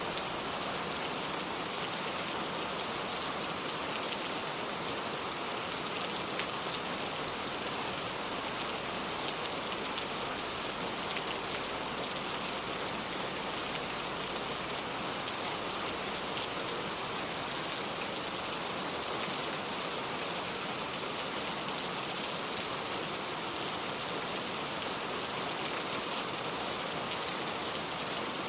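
Heavy rain pouring down steadily, a dense hiss with individual drops tapping here and there.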